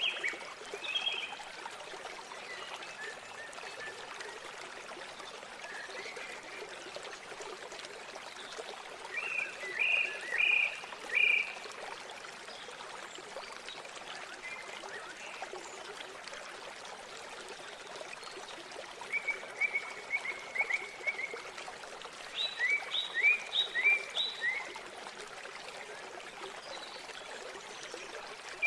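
Steady rush of flowing river water, with a bird calling in several short runs of quick repeated notes.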